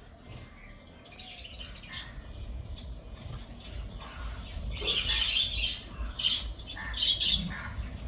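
Several budgerigars chirping and chattering in short, overlapping bursts, busiest about five seconds in and again near the end.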